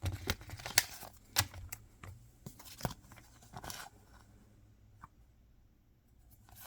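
Hands opening mystery-box packaging: crinkling and tearing of wrapping with sharp clicks and snips, busy for about four seconds and then only a few faint ticks.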